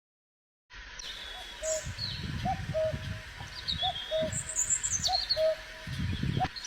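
Birds calling after a brief dropout to silence: a short low note repeated every half second or so, with higher chirps and trills above it. Low rumbles sound underneath.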